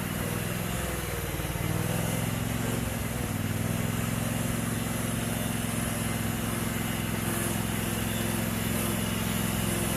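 Riding lawn mower engine running steadily under the homemade loader; its note sags briefly about a second in, then holds steady.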